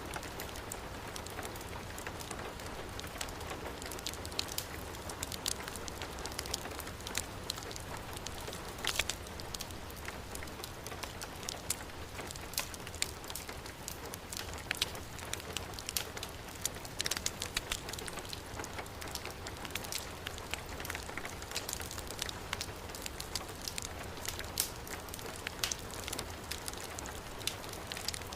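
Heavy rain falling steadily with a wood fire crackling: a constant hiss of rain with frequent sharp pops and clicks scattered through it.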